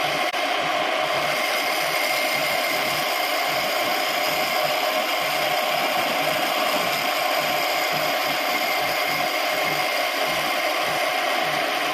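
Homemade wood lathe running steadily, a continuous mechanical whir with a fast low pulsing under it.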